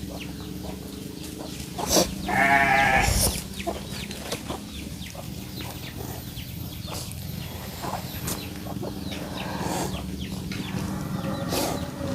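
A goat bleats once, about two seconds in, a single wavering call lasting about a second, over a steady low hum and scattered small clicks.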